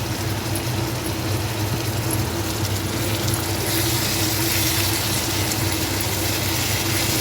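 Steady low electric-motor hum, like an appliance or fan running, with a broad hiss that grows louder about halfway through.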